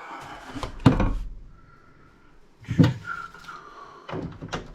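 Cords being pulled off a CRT monitor: a few sharp clacks and knocks as the plugs and cable are handled. One comes about a second in, another near the middle, and two close together near the end.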